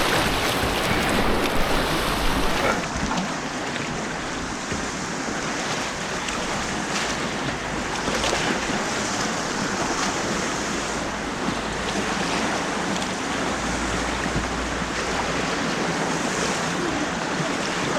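Steady rush of white water on an artificial whitewater course, an even noise with no breaks; about three seconds in the hiss at the top thins out and the rush carries on.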